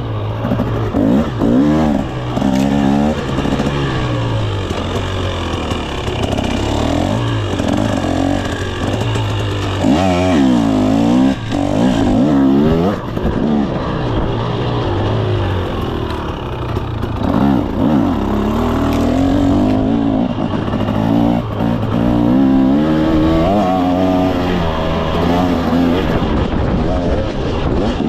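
KTM 300 SX two-stroke dirt bike engine revving up and down as it is ridden, its pitch rising and falling with every throttle change and shift.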